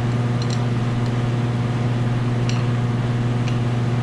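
Steady low machine hum of shop equipment, with a few faint light clicks from handling the spray gun while its loose tip is tightened.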